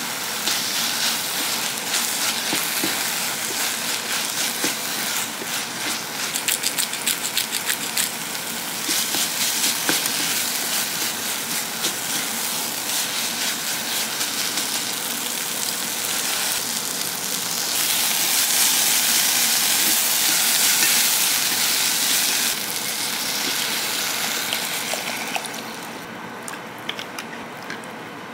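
Chopped onion, green onion and chili flakes sizzling as they are stir-fried in a ceramic pot, with a wooden spoon scraping and tapping against it. The sizzle swells to a louder hiss for a few seconds past the middle and dies down near the end.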